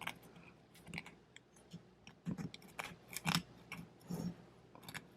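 Short, irregular scraping strokes of a tool against an engine valve, scraping off the carbon crust.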